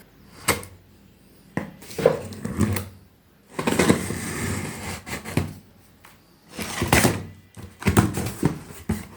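Cardboard packaging being handled and opened by hand: a string of sharp knocks and clicks, with a longer rasping stretch about four seconds in.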